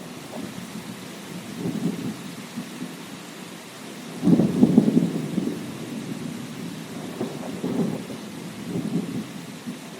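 Thunderstorm: steady rain hissing under low, rumbling thunder that swells several times, loudest a little before the middle, with smaller rolls before and after.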